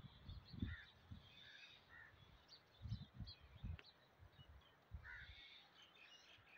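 Quiet outdoor ambience: faint, scattered bird calls, with a few brief low rumbles.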